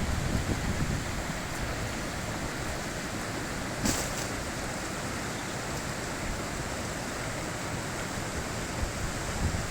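High-mountain river water rushing in a steady, even wash, with a single short click about four seconds in.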